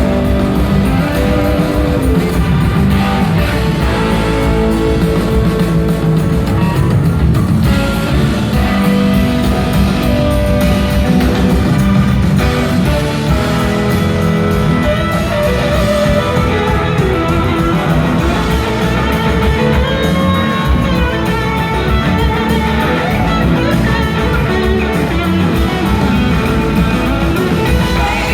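Live rock band playing at a steady, loud level, with electric guitar prominent over the bass and drums.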